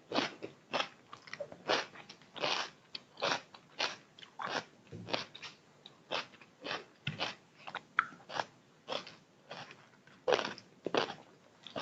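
A person chewing chicken biryani and chilli chicken close to the microphone: short, sharp chewing and biting sounds, about two a second.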